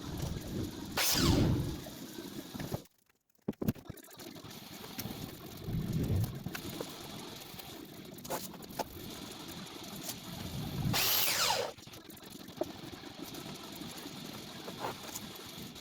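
Power tool work on 2x4 lumber: twice a motor's whine falls steeply in pitch as it winds down, about a second in and again near the end. Between the two, there are a few sharp knocks and handling noise.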